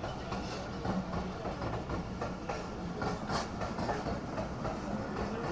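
Passenger train running on the track: a steady rumble with a few clicks of wheels over the rails.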